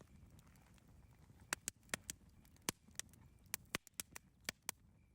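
Campfire crackling: sharp, irregular pops and snaps of burning wood, about a dozen, over a steady low rumble of the fire.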